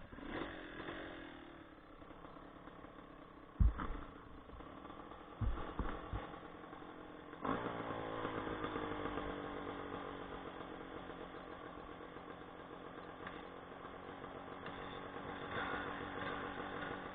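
Off-road motorcycle engines running; about seven and a half seconds in one revs up sharply and then slowly drops in pitch as it runs on. A few short dull thumps come around four and six seconds in.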